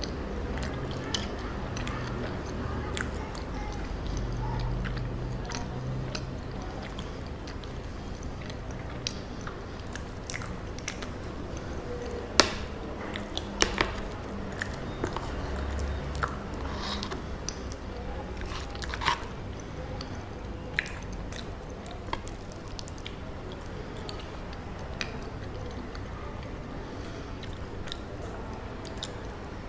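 Close-miked chewing and biting of chocolate cacao mochi, with scattered short sharp clicks of the mouth and food, the loudest a little before and after the middle.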